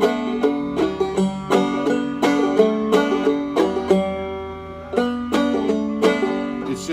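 Five-string banjo played clawhammer style, beating out a bum-ditty strum pattern on the lower strings: single melody notes alternating with brushed strums.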